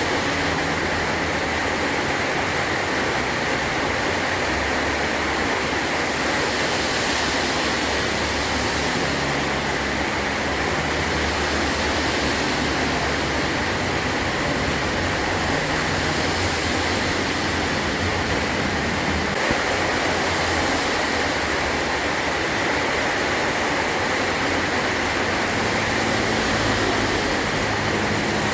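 Heavy rain drumming steadily on a metal roof, a dense even hiss, with a low rumble that swells and fades underneath.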